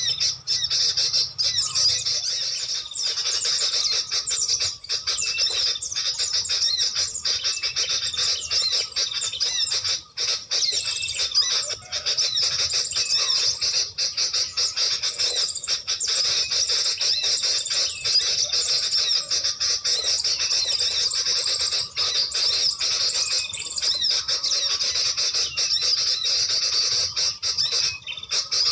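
High-pitched bird calls chattering densely and without pause, with many overlapping squeaky notes.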